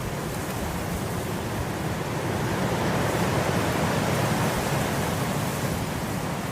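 Wind blowing through grass, a gust swelling to its strongest about halfway through and then easing.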